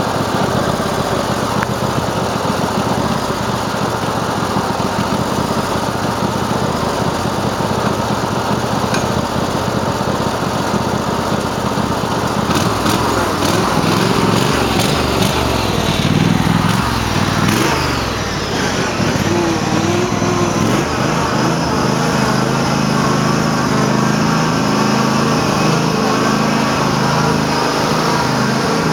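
Cub Cadet garden tractor engine running hard, its pitch rising and falling around the middle as the revs change. The owner says the tractor is running badly and doesn't know why.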